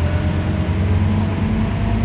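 Scania CN270UB city bus's diesel engine running while the bus drives, a steady low drone with road noise; its pitch rises a little about halfway through as the bus gathers speed.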